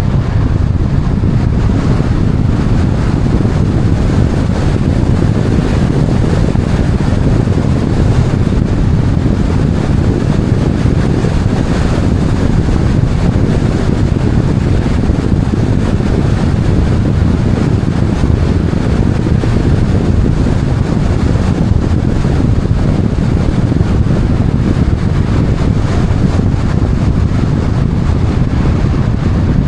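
Steady low rumble of wind and vehicle noise, even throughout with no separate events.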